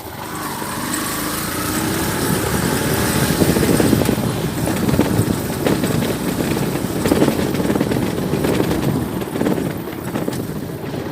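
Motor vehicle engines running in road traffic, a steady loud rumble that swells and eases.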